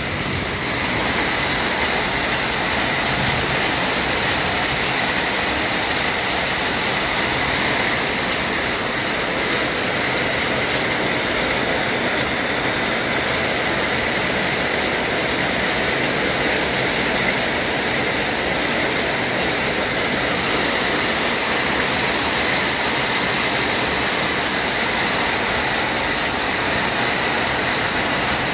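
Heavy rain pouring down, a steady, even rush that does not let up.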